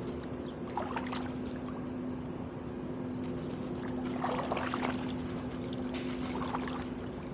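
Canoe paddles dipping into the water, with splashes and drips in three bouts a couple of seconds apart, over a steady low hum.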